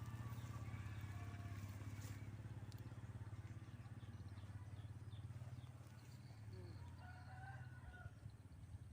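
A low, steady hum with a fast even pulse, like a small engine running, with faint short bird calls over it, clearest near the end.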